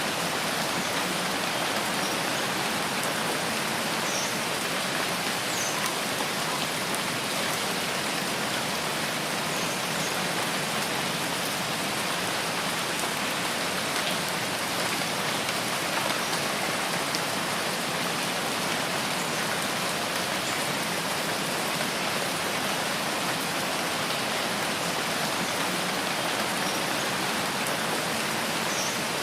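Steady rain falling in a rainforest, an even hiss of drops on foliage and ground, with a few faint high chirps now and then.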